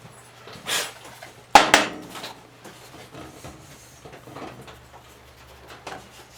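Hard objects being handled and rummaged through: a short scrape, then a loud clatter of two quick knocks about a second and a half in, followed by lighter knocks and clicks.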